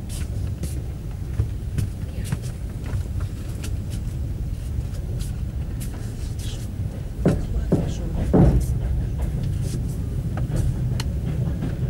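Low rumble of a passenger train car rolling slowly out of a station, heard from inside the carriage, with scattered clicks and knocks from the wheels and running gear and a few heavier thumps about seven to eight and a half seconds in.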